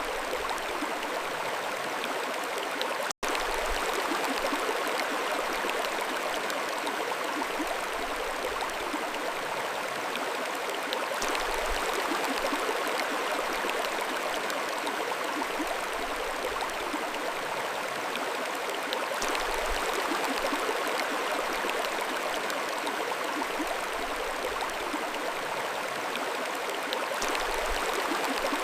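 Mountain stream flowing with a steady, even rush of water. The sound cuts out completely for an instant about three seconds in.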